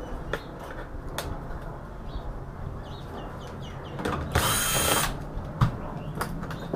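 Hand disassembly of an Asus all-in-one PC: scattered sharp clicks and knocks of tools on the plastic and metal casing, with one louder burst lasting under a second about four seconds in.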